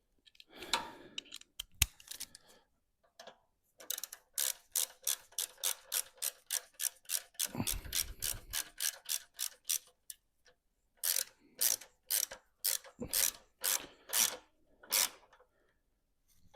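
Socket ratchet clicking as a bolt is wound in: a quick, even run of clicks, a pause, then slower single clicks in short strokes near the end.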